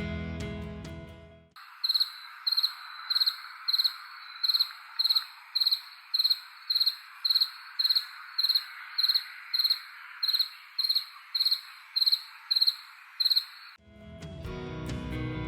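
Male cricket chirping by stridulation, rubbing the scraper of one wing along the file of the other. It gives short, even chirps at about three every two seconds over a steady hiss. Guitar background music plays briefly before the chirping starts and again after it stops.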